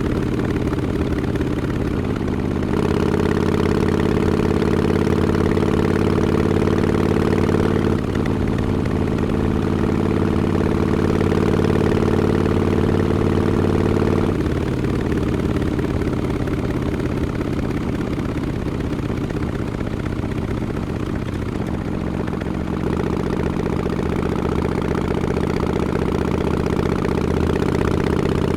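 Harley-Davidson Sportster XL1200X Forty-Eight's air-cooled V-twin running through Vance & Hines Short Shots mufflers with quiet baffles. It holds a steady engine note that changes step-wise about three seconds in, about eight seconds in, midway, and again near the end.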